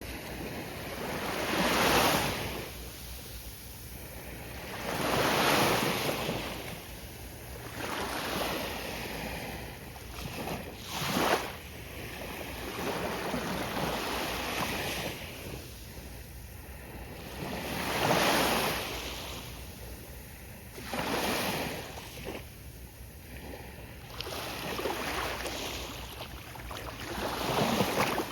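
Gentle ocean waves breaking and washing up the beach, each swell rising and falling every few seconds over a steady hiss of surf, with some wind on the microphone.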